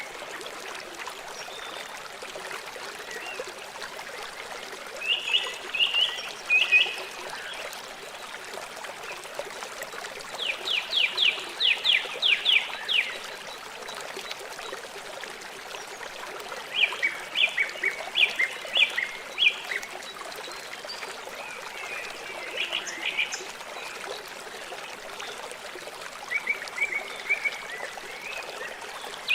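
River water flowing steadily, with a bird singing short phrases of quick repeated notes about five times.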